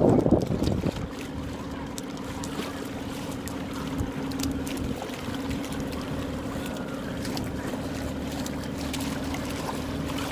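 A loud rush of wind on the microphone in the first second, then a steady motor hum with one constant low pitch over wind and water noise, with a few faint clicks.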